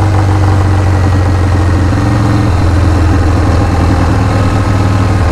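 Harley-Davidson Shovelhead V-twin motorcycle engine idling steadily.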